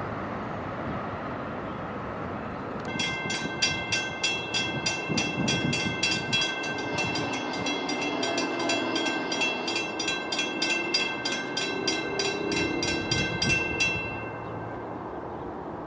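A railroad bell ringing quickly and evenly, starting about three seconds in and stopping about two seconds before the end, over the rumble of a passing train.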